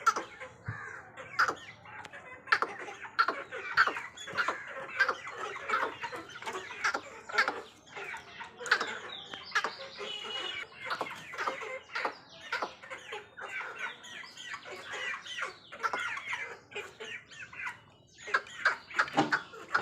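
Aseel chickens clucking on and off, mixed with many short, sharp clicks.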